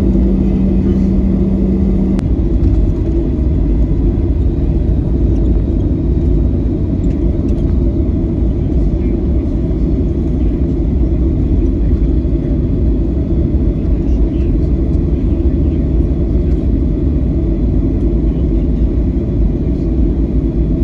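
Steady low rumble of a Boeing 737-900's cabin noise, engines and airflow, heard from a passenger seat. A steady hum cuts off about two seconds in.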